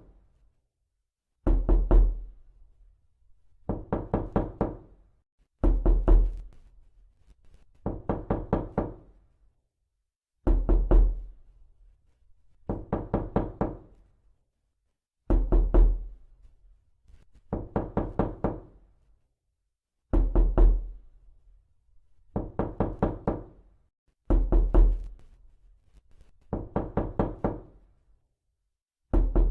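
Knuckles knocking on a door in quick bursts of about five raps. The bursts repeat evenly, about one every two seconds, with silence in between.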